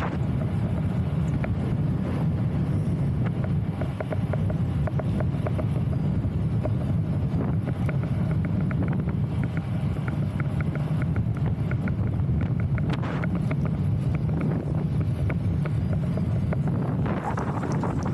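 Wind buffeting the microphone: a steady low rumble, with faint clicks and ticks scattered through it.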